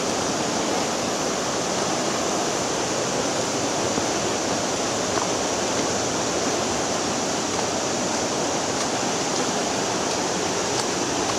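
River flowing steadily in a rocky canyon: an even, unbroken rush of water.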